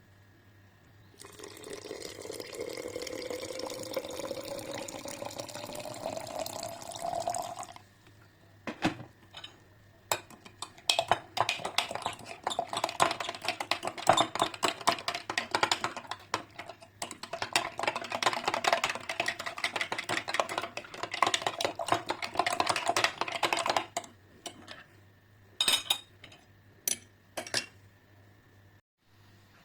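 Liquid poured into a cup or glass, its pitch rising steadily as the vessel fills. After that comes a long run of rapid clinking as a spoon stirs against the container, then a few single clinks.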